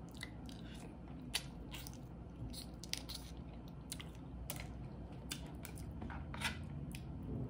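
Close-miked eating of a seafood boil: chewing and biting with irregular small clicks and crunches, scattered a few times a second.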